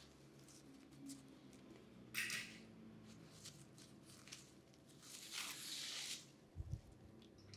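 Quiet haircut handling sounds: a short hissing rustle about two seconds in, a longer one around five to six seconds, light scattered clicks, and a low thump near the end.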